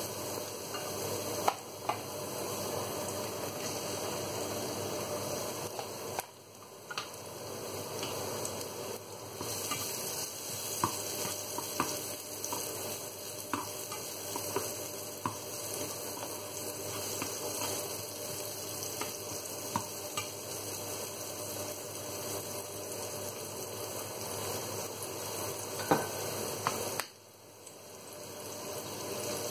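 Garlic and chopped courgette sizzling in hot oil in a non-stick frying pan, stirred with a spatula, with small scrapes and clicks of the utensil on the pan and a couple of sharper knocks. The sizzle dips briefly twice.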